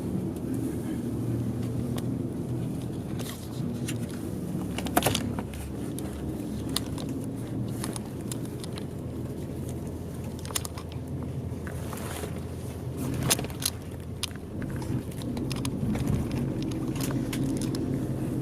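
Bus diesel engine running steadily, heard from inside the passenger cabin, with short clicks and rattles of cabin fittings now and then.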